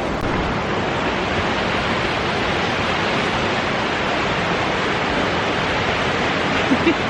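Waterfall on a river: a steady, unbroken rush of falling water. A brief faint sound rises above it near the end.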